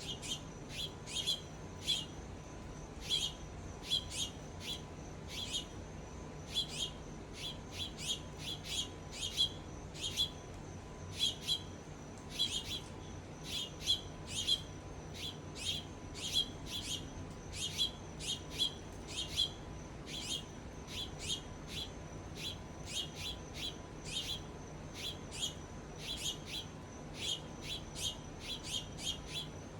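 Small songbirds giving short, sharp chirps, a few a second in irregular runs, over a faint steady high whine.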